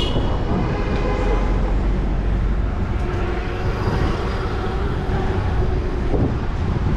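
Wind rushing over the microphone of a moving bicycle, with city traffic noise throughout and a brief high squeal right at the start.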